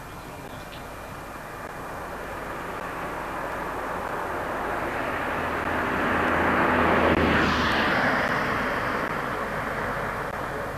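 FS D345 diesel locomotive approaching and passing, its engine and running noise rising to a peak about seven seconds in and then fading away.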